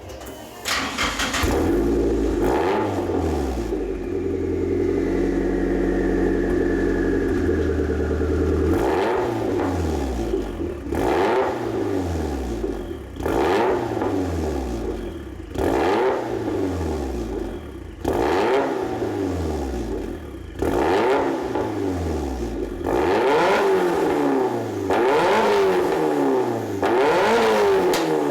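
Exhaust of a Nissan S13 through an EXAS F1 aftermarket muffler. The engine idles steadily, then from about nine seconds in is blipped up again and again, about every two seconds, each rev falling back toward idle. Near the end it is revved up and down more continuously.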